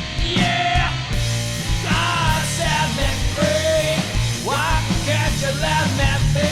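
Rock music: a full band with drums and a steady low end, under a lead melody line that slides up and down in pitch.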